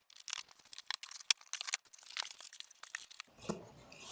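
A parcel's packaging being torn and crinkled open by hand, a quick run of crackles and rips; about three seconds in it turns to a denser, steadier rustle.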